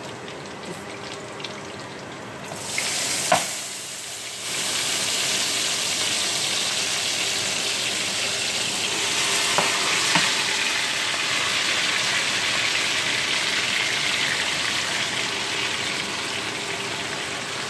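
Garlic frying softly in oil in a frying pan. About three seconds in there is a sharp knock as raw marinated shrimp go into the pan, and from then on the sizzling is much louder and steady.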